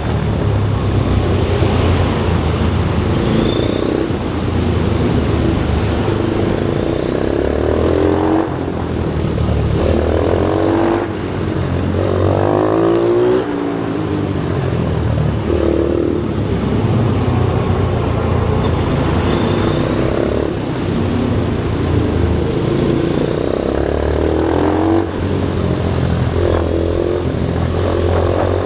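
Single-cylinder pit bike engine running hard, its pitch climbing and dropping back again and again as the throttle is opened and closed.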